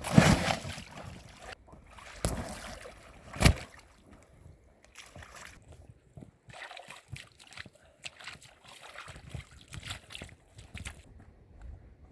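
Water sloshing and splashing around a kayak, louder in the first few seconds, with one sharp knock about three and a half seconds in, then quieter irregular splashes.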